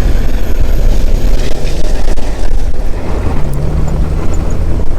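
Jeep engine and drivetrain running under load on a rough downhill trail as the manual transmission is shifted, a heavy low rumble with a steady engine note coming in about three seconds in. The shift is a rough one: the Jeep "did not like that much".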